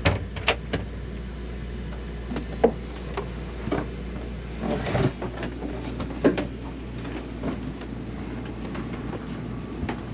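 Scattered knocks and clicks of a closet door and cabinet being handled inside a sailboat cabin, a few of them sharp, with a rustle about five seconds in, over a steady low hum.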